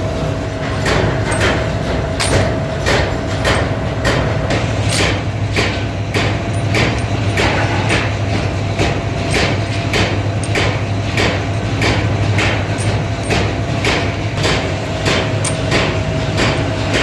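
Rapid, evenly spaced metal-on-metal hammer blows, about two a second, over a steady low hum of workshop machinery, typical of forging work on pliers blanks.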